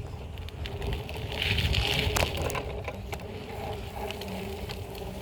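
BMX bike rolling along pavement: a steady low tyre rumble with scattered rattling clicks. A short hissing rush about a second and a half in is the loudest part.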